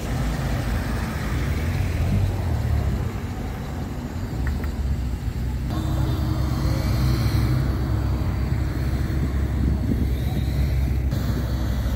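Car engines running at low speed as cars drive slowly past: a Rolls-Royce saloon first, then, after an abrupt change about six seconds in, a Renault Clio RS 197 hatchback whose engine is louder and lower.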